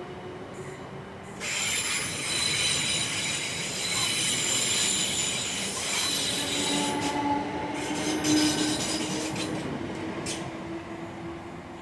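Suburban electric train on the rails with a sudden high-pitched metallic wheel squeal starting about a second and a half in, several shrill tones at once over the rumble. After about seven seconds the squeal drops away, leaving a lower steady whine as the sound fades.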